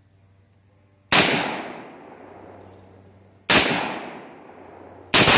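Three AR-15 rifle shots about two seconds apart, each a sharp crack followed by a long echo that dies away over a couple of seconds.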